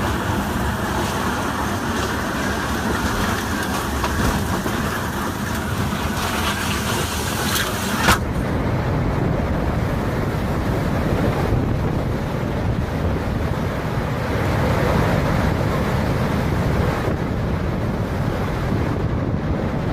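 Storm wind and rain noise in hurricane footage, a steady rushing with no clear events. About eight seconds in it changes abruptly to a duller, deeper noise.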